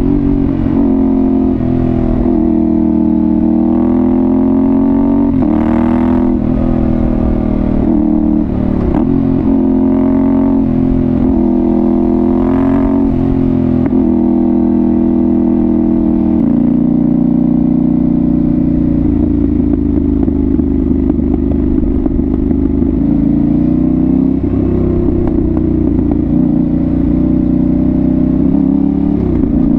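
Yamaha Ténéré 700's 689 cc parallel-twin engine through an aftermarket Dominator GP1 exhaust, heard on board while riding. The revs rise and fall repeatedly through the first half as the bike accelerates and shifts, then the engine runs at a steadier pitch for the rest.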